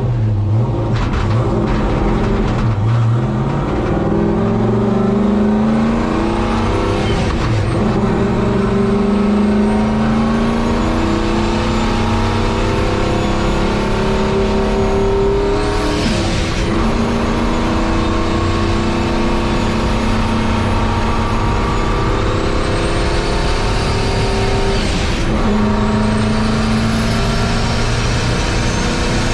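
Turbocharged engine of a 1951 Chevy race truck under load on track. Its pitch climbs steadily and drops sharply at gear changes, about three times.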